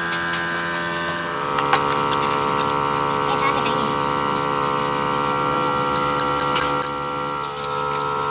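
A machine's motor running with a steady hum, its pitch dropping slightly about a second in and rising a little again near the end, with faint ticks on top.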